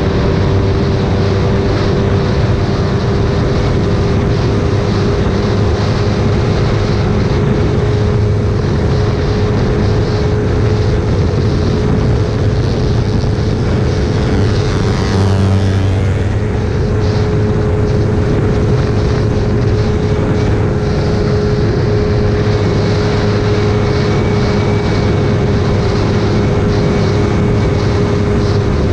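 Onboard sound of a single-cylinder four-stroke motorcycle engine held at high, steady revs at speed, with wind rushing over the microphone. About halfway through, another motorcycle is overtaken, and its engine sweeps by briefly louder.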